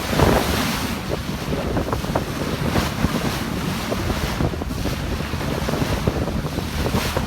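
Wind buffeting the microphone in a continuous rough rumble, with a stronger gust just after the start.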